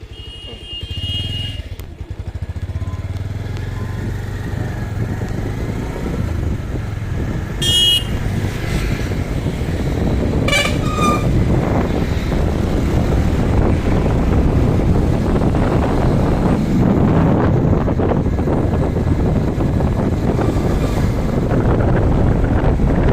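Motorcycle engine running on the move, with short horn toots near the start and about eight and ten and a half seconds in. A rushing noise builds and gets louder through the second half as the bike picks up speed.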